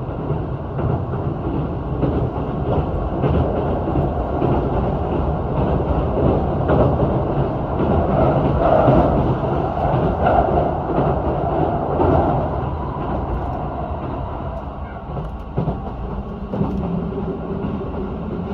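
Keihan limited express train running on the rails, a continuous rumble with occasional clicks, swelling louder for a few seconds midway.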